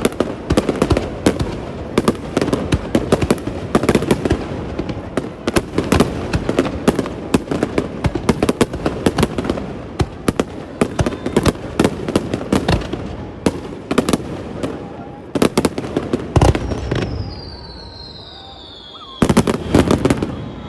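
Fireworks display: a rapid, dense barrage of shells bursting with bangs and crackle. Near the end there is a brief lull with a high whistle falling in pitch, then another quick volley of bangs.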